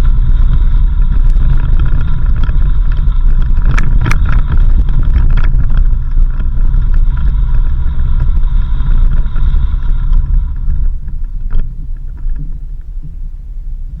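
Off-road vehicle driving on a dirt road: a heavy low rumble with steady engine tones, a burst of clicks and rattles about four seconds in, growing quieter after about eleven seconds.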